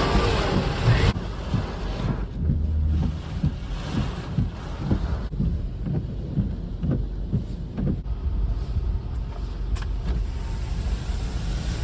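Strong wind buffeting the microphone, a low fluttering rumble that gusts unevenly. It is loudest for about the first second, then eases a little.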